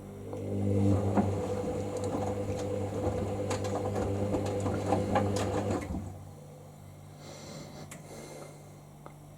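Hoover SIX Inter@ct AAA Whisper 1600 washing machine tumbling its wash load: the drum motor hums as it turns the drum, with the wet clothes and water sloshing and knocking inside. The drum stops about six seconds in, the pause of the wash rhythm while the load heats to 60 ºC.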